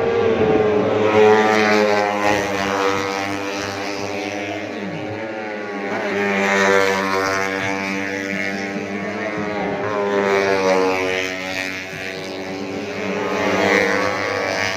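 Four-stroke 150cc underbone race motorcycle engines running at high revs, their pitch rising and falling over and over as the bikes accelerate, shift and pass.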